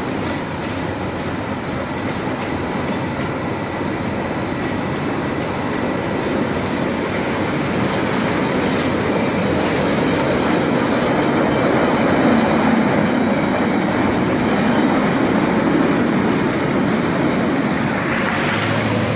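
Empty freight wagons rolling past on the rails, steel wheels running over the track, growing louder for the first half as the cars come closer.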